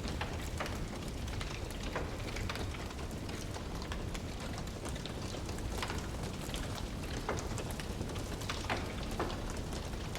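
Wood fire burning in a fireplace: irregular sharp pops and snaps over a steady low rushing burn.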